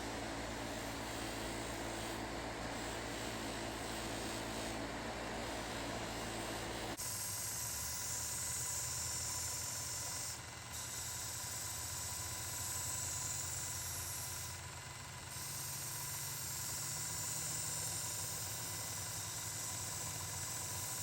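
Belt grinder running. About seven seconds in a steady abrasive hiss starts as work is pressed to the belt, and it breaks off briefly twice when the piece is lifted.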